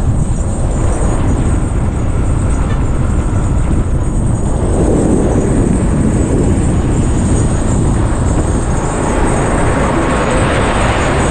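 Steady road and wind noise of a moving vehicle, swelling louder about halfway through and again near the end.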